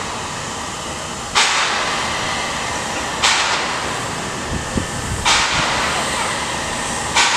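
Steam locomotive under steam, with a steady hiss and four sharp bursts of steam coming about every two seconds.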